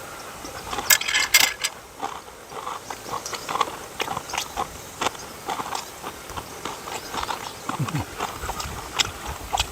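A dog chewing and crunching food, with irregular wet clicks and crunches, a louder cluster about a second in, and a brief low sound near the end.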